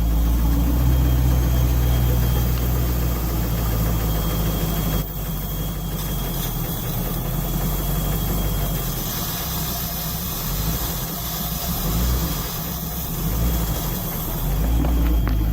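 Chris-Craft boat's engine idling out of the water while being fogged, with fogging oil sprayed into its throttle body as it runs. Its level dips about five seconds in and wavers after that.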